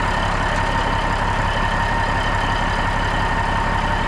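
A 1981 Peterbilt 359's diesel engine idling steadily, with a thin constant whine over the low engine beat.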